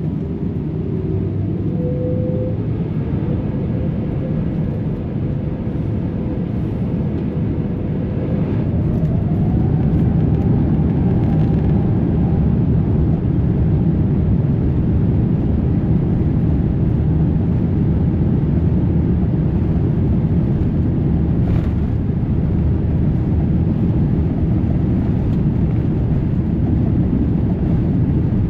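Jet airliner heard from inside the cabin: a steady low rumble with a faint engine whine that rises in pitch about eight seconds in as the engines spool up and the noise grows louder, then holds steady, the sound of engines brought up to takeoff power.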